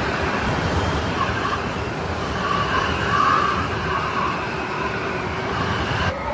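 Strong snowstorm wind blowing steadily, with a howling gust swelling about three seconds in.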